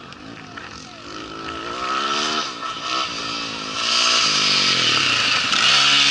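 Rally motorcycle engine revving hard, its pitch climbing and dropping several times through gear changes as the bike passes. It is loudest between about four and six seconds in, with a strong hiss over the engine.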